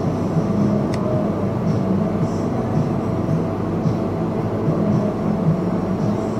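A train running past at a level crossing, a steady rumble.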